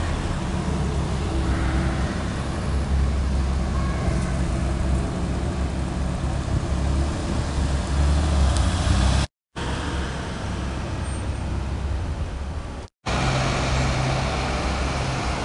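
Air-cooled flat-six engine of a classic Porsche 911 Carrera Targa running as the car drives slowly by, over city traffic noise. The sound cuts out abruptly twice, briefly each time.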